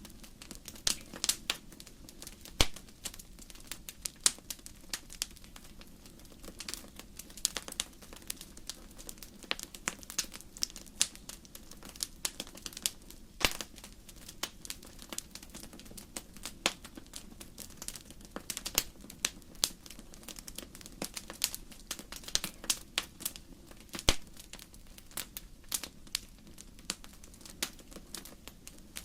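Wood fire crackling in a fireplace: burning logs snapping and popping irregularly, a few louder pops among many small crackles, over a low steady rush of the flames.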